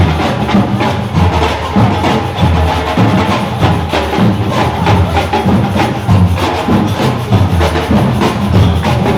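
Music driven by drums and percussion, with a steady low beat of about two a second and sharp clacking strokes over it.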